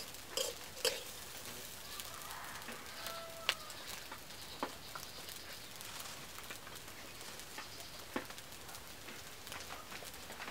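Faint sizzling of food frying in a large metal wok over a wood fire, with a metal spatula stirring and scattered sharp clicks and scrapes against the pan.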